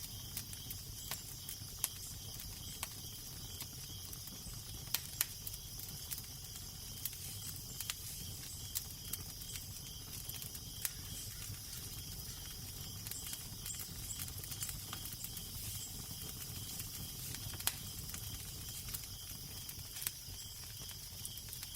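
Wood fire crackling with irregular sharp pops over a steady low wind rumble and hiss.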